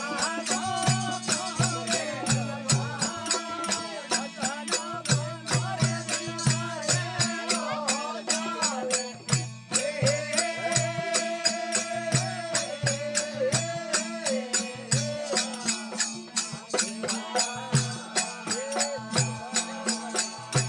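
Marwari desi bhajan music: a gliding melody over a steady drone, kept in time by a regular drum beat and sharp jingling strokes a few times a second.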